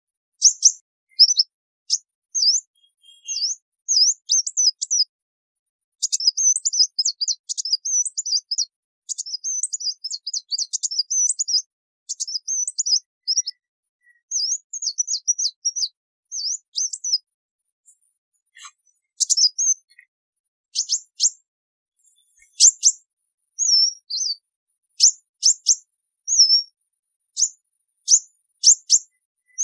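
Sunbird flock-gathering calls: high, thin chirps and rapid twittering trills in bursts with short pauses, turning to sharp, quick down-slurred notes in the second half.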